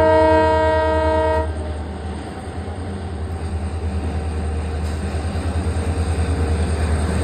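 Indian Railways diesel locomotives crossing a steel girder bridge: the horn sounds a chord of several steady notes for about a second and a half at the start, then the low rumble of the train takes over with a rhythmic beat, growing louder as it approaches.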